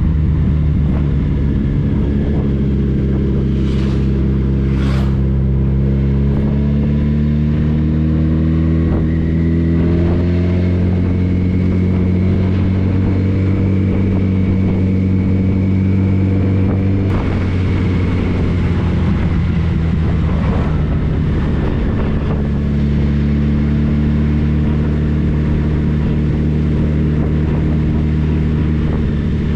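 Motorcycle engine running under way, its pitch climbing slowly and steadily as it accelerates, then dropping abruptly about seventeen seconds in and holding steady after that.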